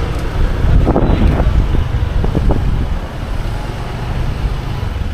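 Riding motorbike: engine and road noise under heavy wind rumble on the microphone, with a few brief sounds from traffic about a second or two in.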